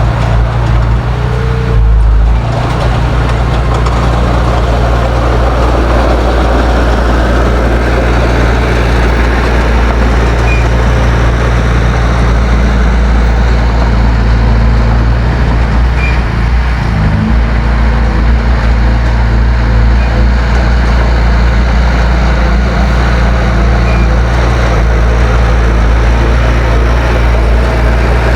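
Heavy diesel engine of earthmoving machinery running loud and steady with a deep note. There is a brief low thump about two seconds in, and the engine note shifts partway through.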